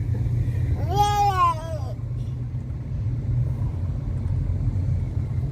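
Steady low rumble of a car driving, heard from inside, with one drawn-out high cry that rises and then falls, about a second in and lasting about a second.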